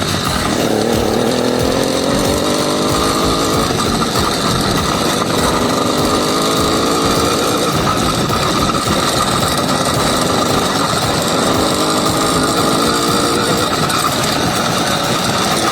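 Small two-stroke 80cc bicycle engine running hard under way, its revs climbing at the start and then rising and falling with the throttle.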